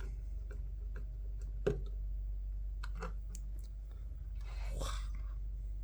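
A few light clicks and taps of small plastic headset parts being handled and fitted together, the sharpest about a second and a half in, then a short rustle near the end, over a steady low hum.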